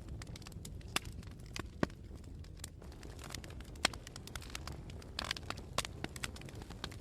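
Wood fire crackling: irregular sharp pops and snaps over a steady low rumble, with a brief hiss about five seconds in.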